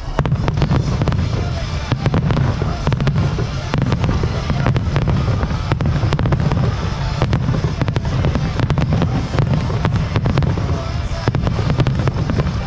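Fireworks display going off in a dense barrage: many sharp bangs and crackles in quick succession over a steady low rumble, with music playing alongside.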